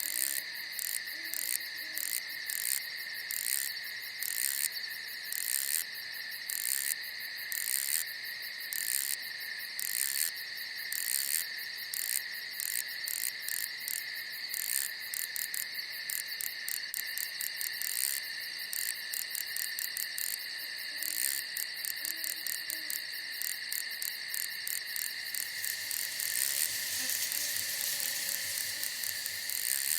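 Night chorus of crickets and other insects: a steady high trilling with a string of quick, repeated chirps on top. Faint low calls come in near the start and again about twenty seconds in.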